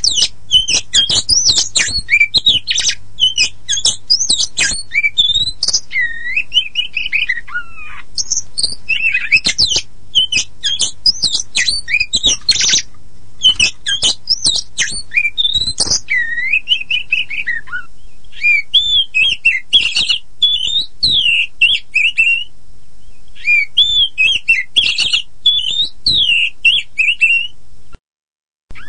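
Oriental magpie-robin (kacer poci, the black-and-white form) singing without pause: a rapid, varied run of whistles, rising and falling glides, and harsh chattering notes. The song breaks off to silence for a moment near the end.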